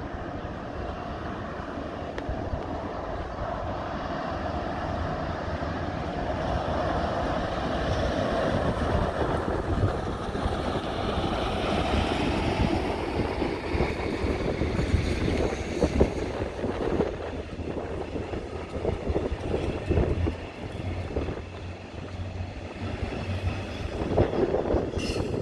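Train running along the tracks: a steady rumble with a whine that rises in pitch partway through, then wheels clattering over rail joints.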